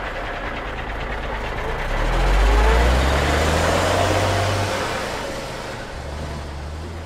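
Heavy vehicle's diesel engine with tyre and road noise, swelling to its loudest two to three seconds in and then slowly fading.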